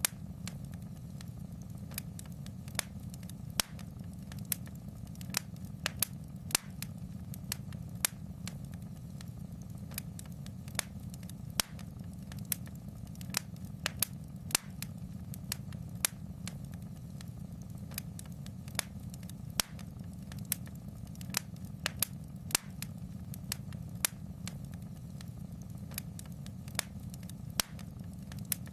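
Wood fire in a fireplace crackling: irregular sharp pops, about one or two a second, over a steady low rumble of the burning fire.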